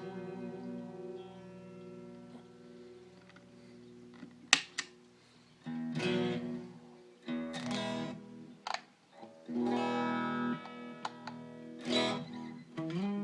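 Electric guitar played through a DIY Madbean Laserwolf pedal (phaser, delay and overdrive in one unit). A chord rings and fades, a sharp, loud pick attack comes about four and a half seconds in, then several more chords and short riffs follow.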